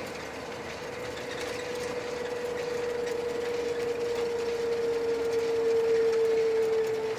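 The MAZ-5440 truck running, heard from inside the cab. A steady whine grows louder over several seconds and drifts slightly lower in pitch, then eases off near the end.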